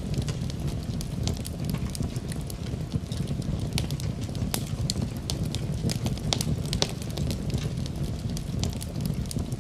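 Wood fire burning in a fireplace: a steady low rumble of flames with frequent, irregular crackles and sharp pops of burning logs.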